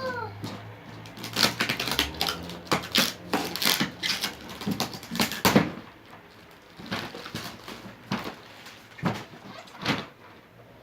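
Cardboard and plastic packaging of a toy box being handled and opened: a quick run of clicks, taps and rustles, busiest in the first half and sparser after that.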